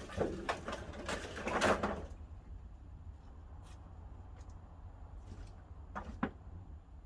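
Split pine firewood knocking and clattering as it is handled, with a cluster of knocks in the first two seconds and two sharper knocks about six seconds in, over a low steady rumble.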